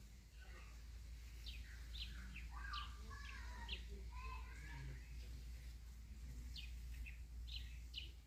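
Birds chirping faintly: a string of short, sharp, falling calls with some warbling in between, over a steady low rumble.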